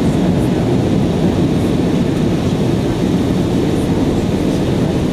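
Airbus A319 airliner on approach, heard from inside the passenger cabin: a steady, even low roar of the engines and airflow.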